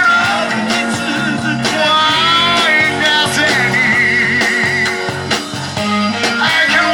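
Live rock and roll band playing, with guitar and singing. A long note with vibrato is held through the middle.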